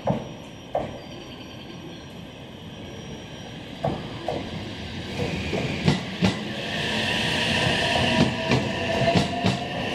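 Electric train coming in slowly, getting louder, its wheels clacking in pairs over rail joints. A high squeal builds from about halfway through.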